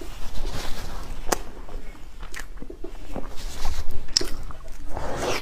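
Chewing of soft bread soaked in chocolate sauce, with sharp mouth clicks and smacks a few times.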